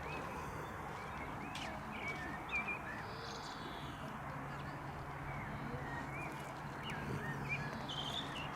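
Birds calling in many short, hooked chirps over a steady outdoor background, with a faint low hum in the middle.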